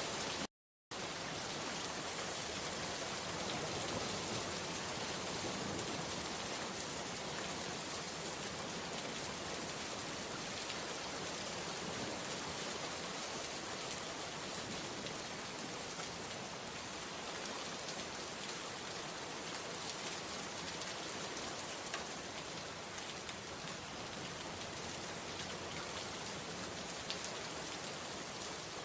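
Steady rain falling, an even hiss with the odd sharper drop. It cuts out completely for a moment just under a second in, then resumes.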